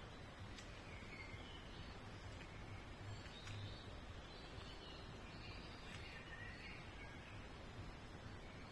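Faint bird chirps, short and scattered, over steady outdoor background noise.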